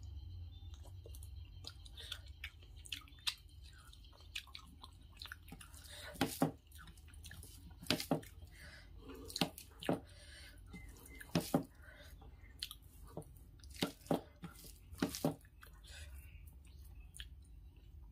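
A person chewing mouthfuls of rice and fried katla fish eaten by hand, with short wet clicks of the mouth and fingers at irregular intervals. The loudest clicks come between about six and fifteen seconds in.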